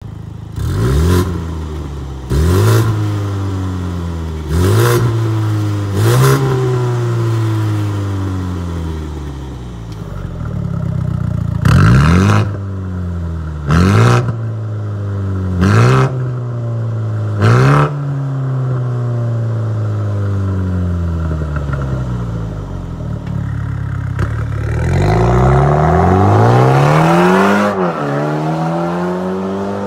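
BMW M235i Gran Coupé's turbocharged four-cylinder revved through an aftermarket valved mid- and rear-section exhaust: about eight quick blips, each rising sharply and falling slowly back to idle, then a longer held rev near the end.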